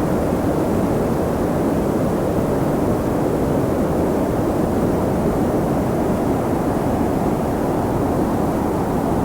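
Steady wind: a deep, even rushing that holds at one level, with no gusts, breaks or other sounds.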